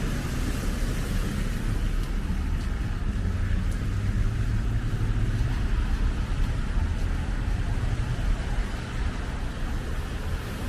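Steady road traffic noise on a snowy city street: a continuous low rumble with tyre hiss.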